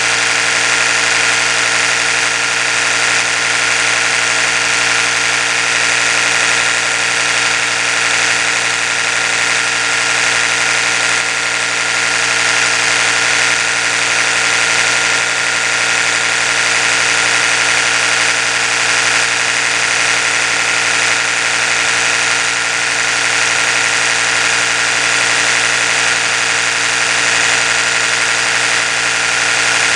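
Oral-B electric toothbrush running continuously: a steady motor hum with a hiss over it that does not change.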